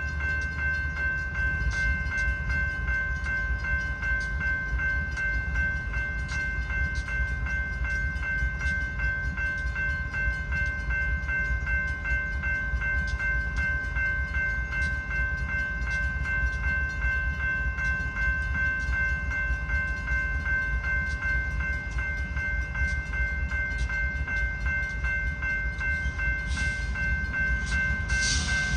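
A Safetran mechanical railroad crossing bell rings continuously over the low rumble of a slow-moving freight train. The bell still sounds healthy, though it is starting to wear from long activations. Two short hisses come near the end.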